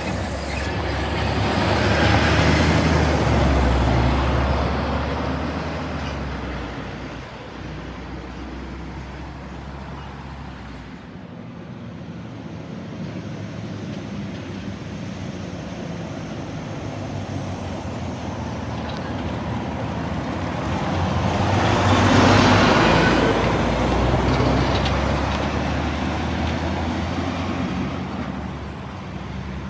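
Heavy trucks driving past on a road, two of them: one loudest about three seconds in, the other about twenty-two seconds in. Each swells and fades with a low engine note and tyre noise.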